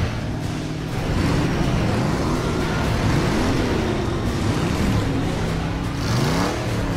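Several big modified car and truck engines running hard in a convoy, their pitch rising and falling as they rev. One engine revs up and back down near the end.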